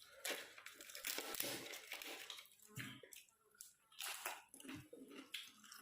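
Close-up chewing of crunchy food, a run of irregular short crunches.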